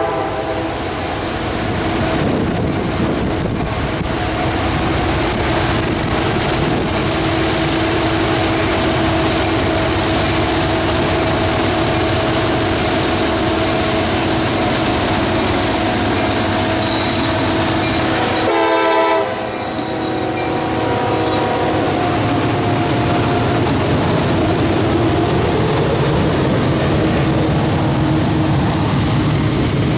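CSX manifest freight train passing close, led by an SD70AC and a CW44AC: the diesel locomotives go by under power, then a long string of boxcars and tank cars rolls past. A short train horn blast sounds about two-thirds of the way through.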